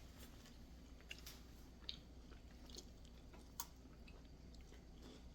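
Faint chewing of a Lunchables snack of crackers and turkey, with a few soft crunchy clicks spread through an otherwise near-silent room.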